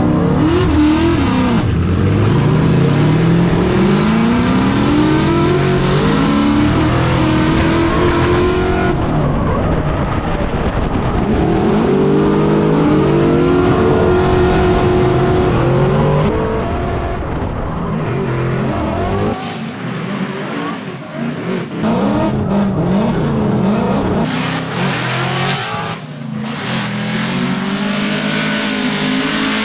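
Drift car engine revving hard and easing off again and again, with a hiss of tyre noise strongest in the first third. It eases back briefly about two-thirds of the way through before pulling again.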